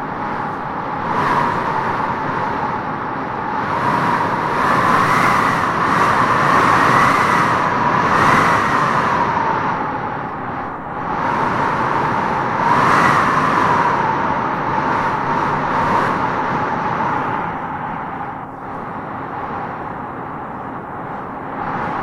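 Howling wind gusting through trees: a steady rush with a whistling howl that rises in pitch and swells with each gust, strongest from about a quarter of the way in and again past the middle, easing off toward the end.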